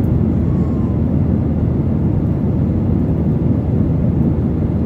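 Steady roar of a jet airliner in flight, heard from inside the passenger cabin.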